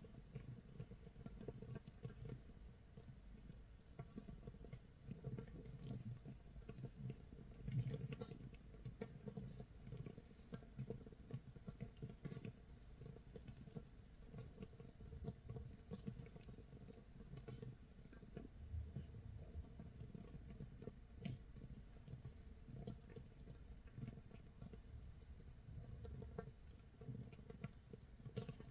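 Makgeolli starter mash (mitsul) fermenting in a crock 24 hours in, fizzing and crackling as fermentation gas bubbles burst at the surface: a faint, steady, irregular patter of tiny pops, like light rain or crackling scorched rice.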